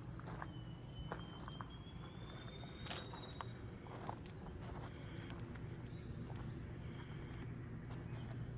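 Faint outdoor ambience: a steady high-pitched insect drone, with scattered light footsteps and a low steady hum underneath.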